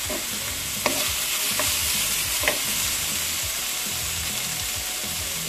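Beef strips and sliced red onion sizzling in a hot wok as they are stir-fried. A wooden spoon knocks and scrapes against the pan a few times in the first half.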